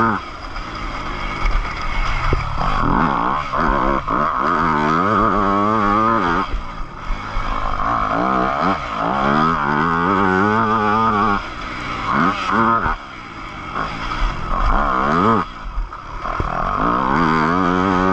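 Yamaha YZ250F four-stroke single-cylinder motocross engine running hard on the track, heard from on the bike. Its pitch climbs again and again as it revs up through the gears, and it falls away several times when the throttle is shut.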